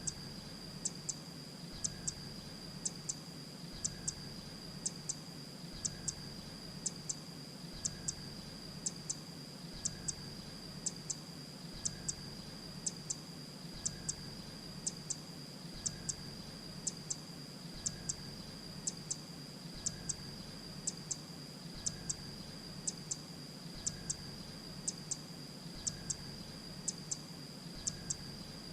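Grey-breasted prinia calling: short, high, thin double notes repeated about once a second, over a steady high-pitched tone and a low hum.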